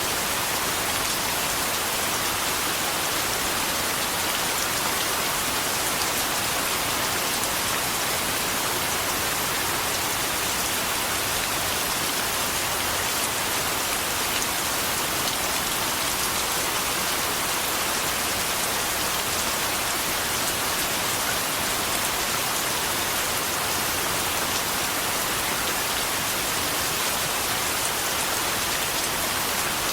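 Steady, heavy rain falling on a surface, an even hiss with no breaks.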